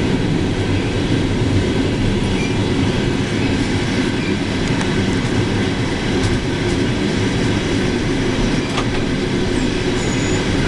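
Steady rumble of a moving passenger train heard from inside the carriage: wheels running on the rails, with a few faint clicks.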